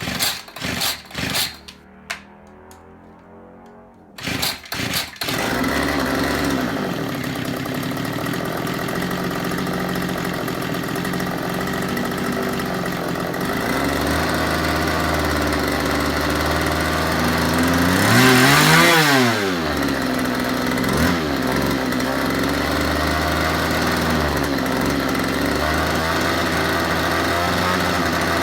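Gas string trimmer engine being pull-started: a few short bursts at the starter pulls, then it catches about five seconds in and runs steadily at idle after a carburetor airflow adjustment. About two-thirds of the way through it is revved up and let back down once, with a short blip of throttle soon after.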